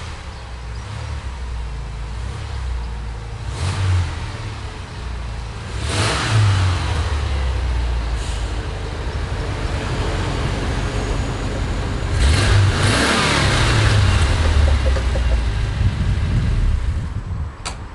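Rebuilt VW T25 Wasserboxer water-cooled flat-four engine running and being blipped several times, with a longer rise in revs about two-thirds of the way through. It is a first run after a rebuild with new piston rings, lapped valves and decoked heads.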